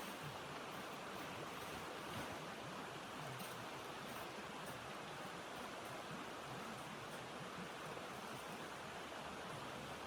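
Steady rushing wind, an even hiss that neither rises nor falls, with faint scattered ticks.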